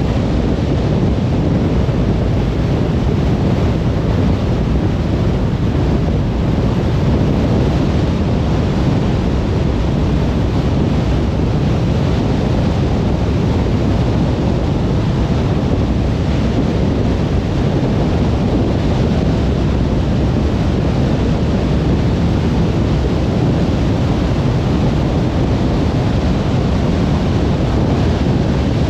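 Steady road noise of a car cruising on a motorway: tyres rolling and air rushing in a low, even rumble that never changes.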